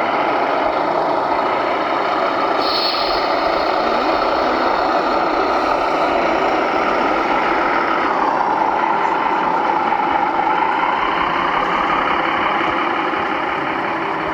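A scale radio-controlled construction model running with a steady mechanical whir. Its pitch sags about eight seconds in, then climbs back.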